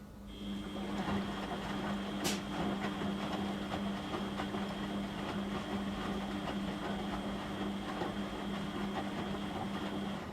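Beko WM6255W washing machine running a cycle: a mechanical run with a steady high whine starts just after the beginning and cuts off about ten seconds later, over a constant low hum.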